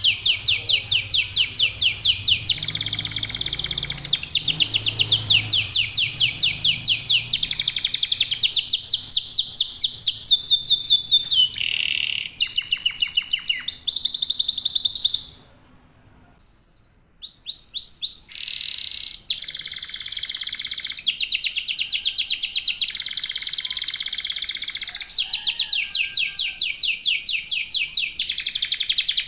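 Domestic canary song: long rolling trills of fast repeated high notes, changing from one trill to the next. It breaks off for about a second and a half near the middle, then starts again.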